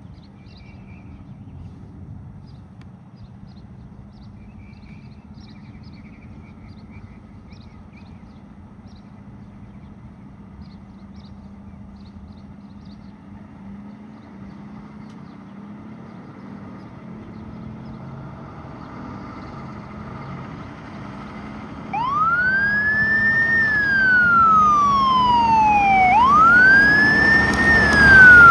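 Fire medic truck's siren starting up about three-quarters of the way in and wailing: a quick rise, then a slow fall, twice. It grows louder toward the end. Before it, only a faint steady low hum.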